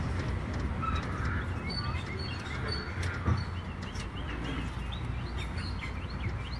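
Small birds chirping: a run of short, quick rising chirps, thickest in the second half. Under them runs the steady low rumble of a moving open-sided tour tram, with a single knock a little past halfway.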